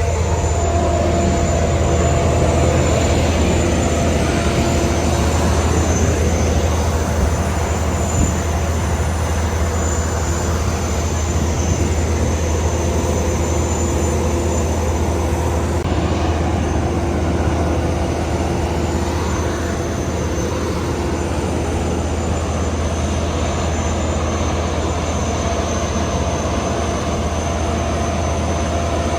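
Aircraft engines running loudly and steadily, a dense rumble with a constant whine over it.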